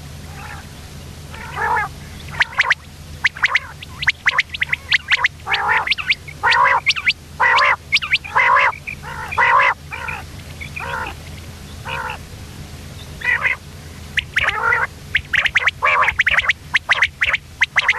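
Common quail calling: many short, harsh notes, repeated irregularly and crowding together in the middle and near the end, over a steady low hum.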